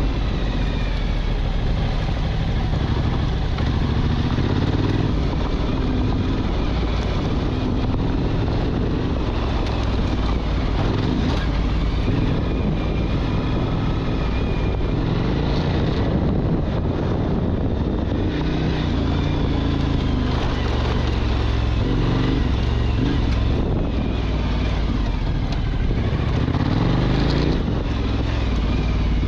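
Motorcycle engine running under way, its pitch rising and falling with the throttle, over a steady rushing noise.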